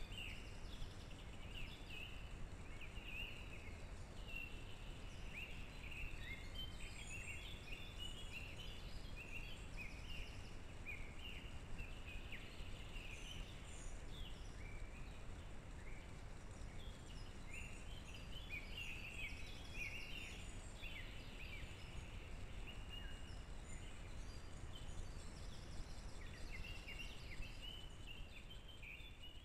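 Small birds calling, a dense scatter of short, high chirping notes throughout, over a steady low background noise; it fades out near the end.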